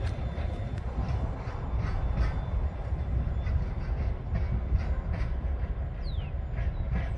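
Freight wagons of a TasRail train rolling past, the wheels clicking over the rail joints again and again over a steady low rumble.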